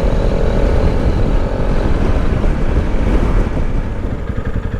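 Motorcycle riding along with heavy wind buffeting on the microphone and the engine's low rumble underneath; near the end the wind eases and the engine slows, its firing pulses becoming distinct as the bike slows down.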